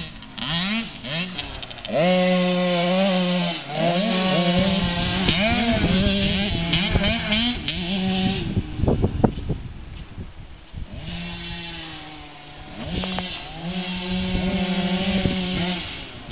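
Small two-stroke engines of Polini pee-wee motocross bikes ripping around a track, revving up and down over and over as the riders work the throttle. The sound fades for a few seconds in the middle, then the engines come back and rev again.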